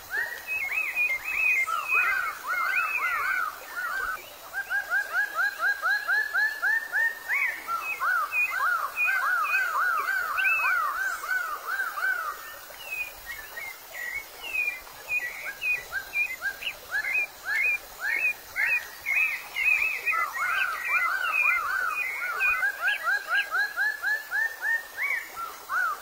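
Bird calls in long runs of rapid, rising chirps, several a second, with sharper higher chirps between the runs.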